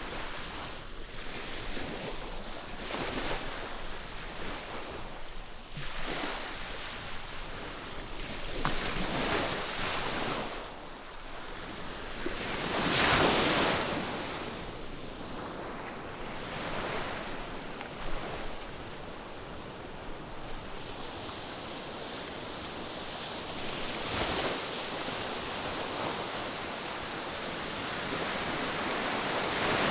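Ocean surf: waves breaking and washing in on the shore, swelling and ebbing every few seconds, with the loudest wave crashing a little before halfway through.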